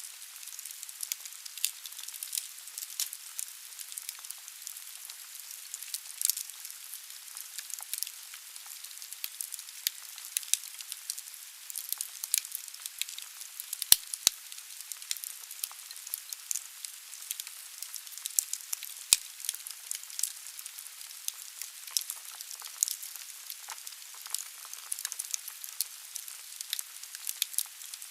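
Firewood burning in a fireplace: a steady hiss with constant crackling and a few louder pops, the sharpest about 14 seconds in.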